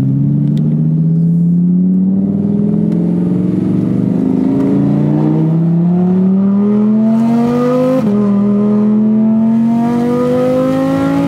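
Audi R8's V10 engine through a newly fitted aftermarket exhaust, heard from inside the cabin, accelerating hard through the gears. The engine note climbs steadily in pitch, broken by quick upshifts that each drop it, about four and a half and eight seconds in and again right at the end. The engine is still warming up.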